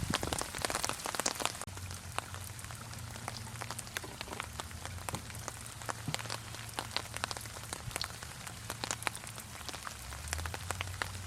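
Steady rain falling on a surface, an even hiss with many separate drops ticking and pattering irregularly, over a faint low rumble.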